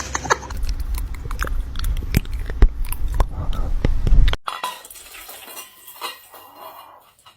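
A run of sharp clicks and knocks over a low rumble, cut off abruptly about four seconds in, followed by a much quieter stretch.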